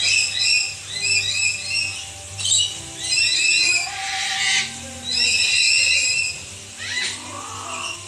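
Birds calling in an aviary: short, high-pitched calls repeated in quick runs, with a harsher squawk about four seconds in.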